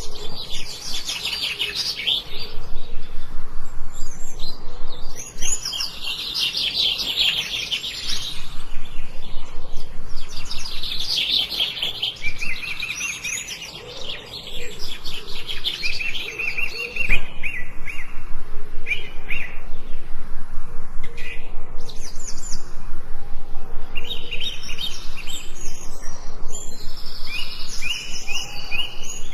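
Several forest songbirds singing at once, in overlapping phrases of rapid, high repeated chirps and trills, briefly quieter around the middle.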